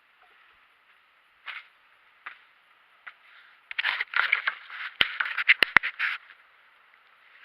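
Scraping and sharp clicks of tools and metal parts being handled during brake work: a few isolated scrapes, then a dense run of scraping and clicking about four to six seconds in.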